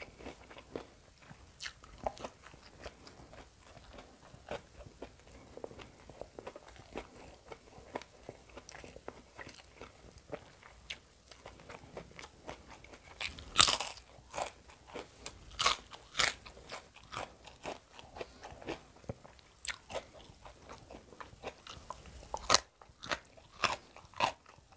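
A person chewing and biting crunchy food close to the microphone: a run of short crunches and mouth sounds, with the loudest crunching bites about halfway through and again near the end.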